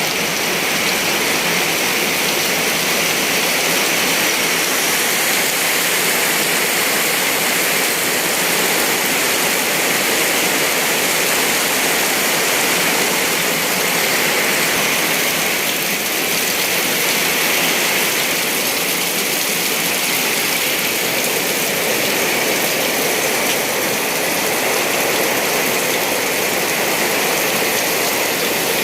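Heavy rain with strong wind: a loud, steady rush of downpour.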